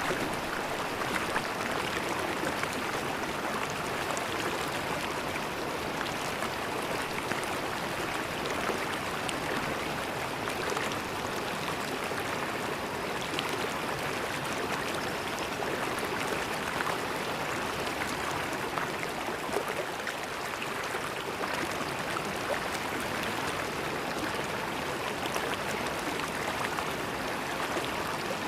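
River water flowing and gurgling steadily, a continuous rush with small splashes and ticks throughout.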